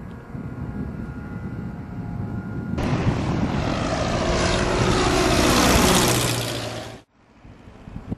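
Propeller-driven light airplane's engine and propeller, faint at first, then suddenly loud as it passes close, growing louder with its pitch sweeping down, then cut off abruptly about seven seconds in.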